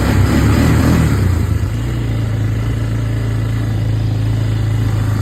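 Engine of a trail-riding vehicle running steadily, with a louder rushing noise over roughly the first second and a half that then dies down.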